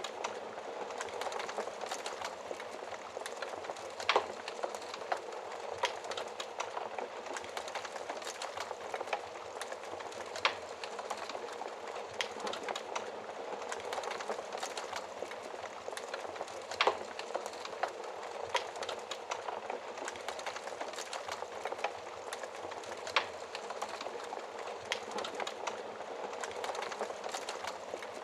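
Wood fire burning in a fireplace: a steady soft hiss of flames full of small crackles, with a few louder pops about every six seconds.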